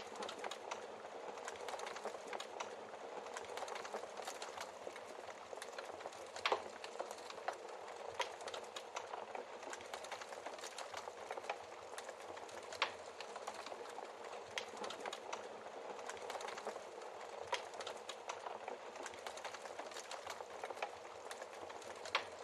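Wood fire crackling steadily, with irregular sharp pops from the burning logs.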